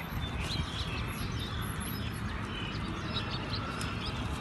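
Several birds chirping in short, scattered calls over a steady low background rumble.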